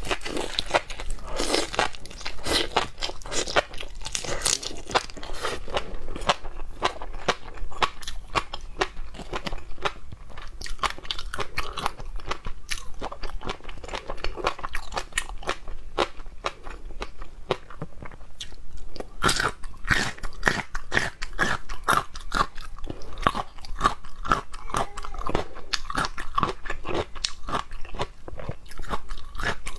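Close-miked chewing of seafood, with crisp, rapid crunching and wet mouth sounds running on without a break.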